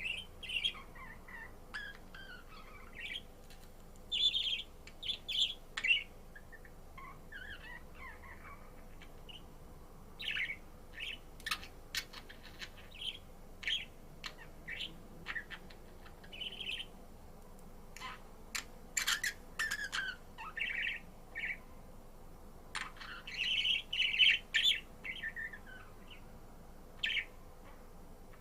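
Budgerigar chirping in scattered short calls and warbled phrases, with a few sharp clicks in among them.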